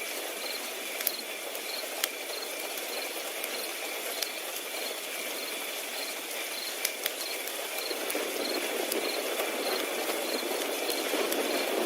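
Crickets chirping steadily in an even, repeating rhythm, over a crackling wood fire that gives sharp pops now and then. The fire's low rushing grows louder over the last few seconds.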